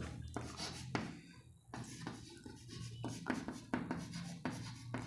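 Someone writing by hand: faint, irregular scratches and taps.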